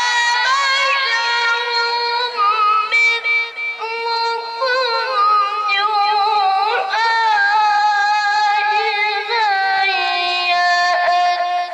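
A child's voice reciting the Quran in the melodic tilawah style, holding long high notes and decorating them with quick ornamental turns, the pitch stepping down near the end.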